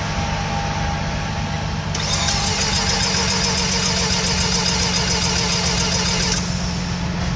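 Engine being cranked over slowly by its starter without firing, a steady rhythmic churning. A high-pitched whine joins about two seconds in and stops about a second before the end.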